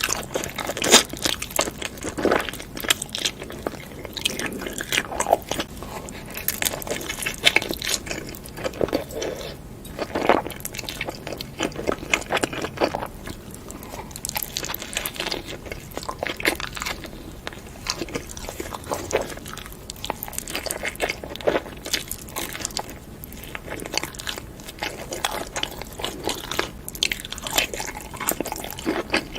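Close-up eating sounds: a person biting and chewing crunchy food, with many irregular crunches and wet mouth clicks.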